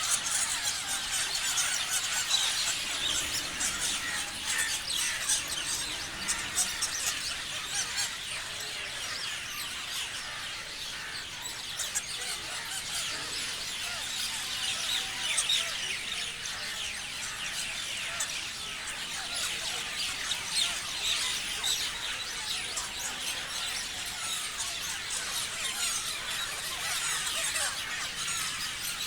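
A flock of parrots chirping, many birds calling at once in a dense, unbroken chatter of short high calls.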